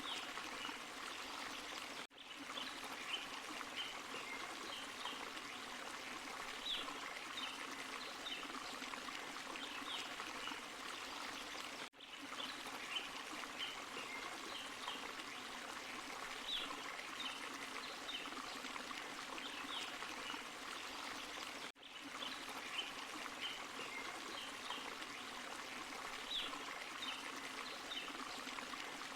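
Forest stream and small waterfall running steadily, with short high plinks scattered over the rushing water. The sound dips briefly three times, about every ten seconds, where the same stretch of water sound repeats.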